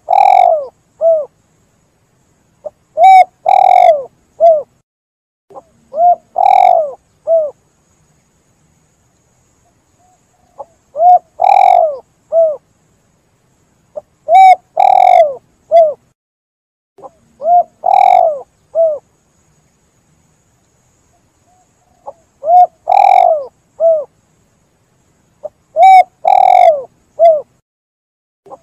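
Spotted dove (tekukur) cooing: a three-note call, a short note, a long louder note and a short closing note, repeated about every three seconds with a couple of longer pauses.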